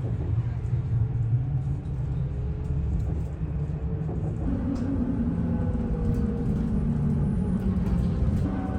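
Steady low rumble of a moving road vehicle with an engine hum, which shifts to a slightly higher pitch about halfway through.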